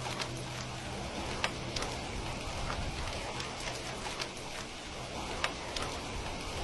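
Steady rain, an even patter, with a few sharp clicks scattered through it, the clearest about one and a half seconds in and again near the end.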